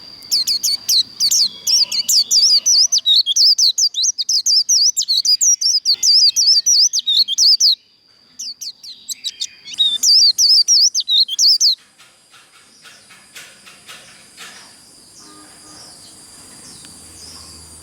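White-eye (vành khuyên) singing its fast twittering 'líu' song: rapid, high chirps in two long runs broken by a short pause about 8 seconds in. In the last few seconds the song drops away to faint, scattered ticks over a thin, steady high tone.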